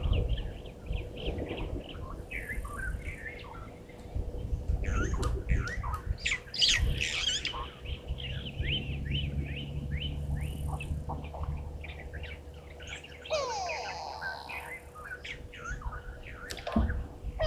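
Wild birds calling and chirping: many quick, repeated high chirps and trills. A low steady drone sits under them for several seconds in the middle.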